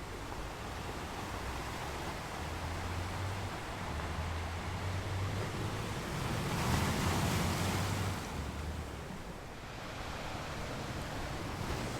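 Ocean surf washing onto a beach, a steady wash of water that swells as a wave breaks about seven seconds in and then draws back.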